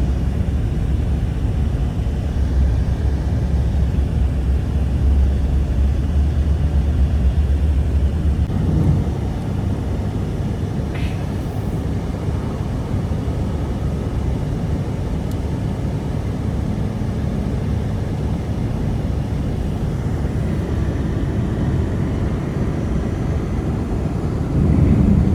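Strong blizzard wind blowing, a loud steady low rumble without any tone; the deepest rumble eases slightly about nine seconds in.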